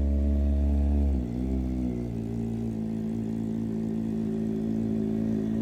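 Kawasaki ZX-4RR's 399 cc inline-four running at held revs, then about a second in the revs drop as the throttle is let go, and it settles into a steady idle.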